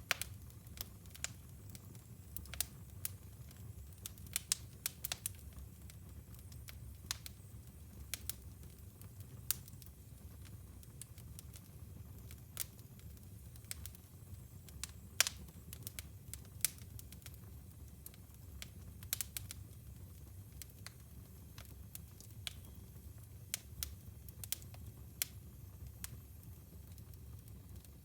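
Wood fire burning in a fireplace: irregular sharp crackles and pops over a low steady rumble.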